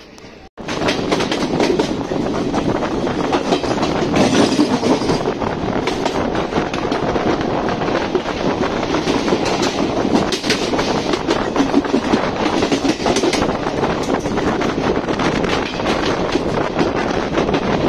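Passenger train running at speed, heard from an open coach doorway. Steel wheels clatter over rail joints in a dense run of clicks over a steady rush of running noise. The sound comes in suddenly about half a second in.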